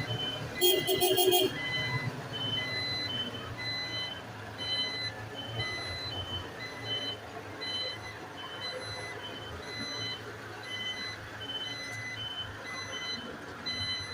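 Garbage truck's reversing alarm giving a steady run of short high beeps over the low running of the engine. Near the start a brief, loud, rapidly pulsing buzz cuts across it.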